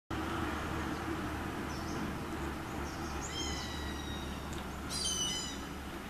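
Two short bird calls, each a single note with several overtones: one about three seconds in, the other about five seconds in. A steady low rumble and hiss run underneath.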